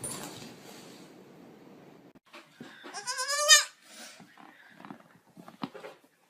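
One short, wavering bleat about three seconds in, with faint clicks and rustles around it.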